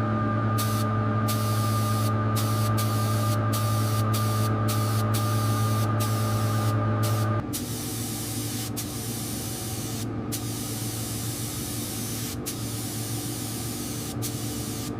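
Steady spraying hiss, with a machine's low hum underneath that stops about seven seconds in. The hiss goes on, broken by many brief breaks.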